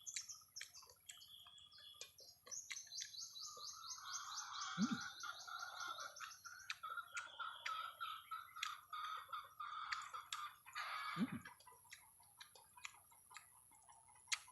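Faint birds chirping, with a fast trilling run of high notes a few seconds in, over scattered faint clicks.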